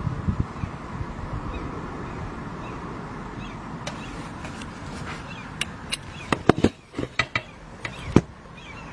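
Faint bird calls over a steady outdoor noise, with a quick run of sharp clicks and knocks in the second half.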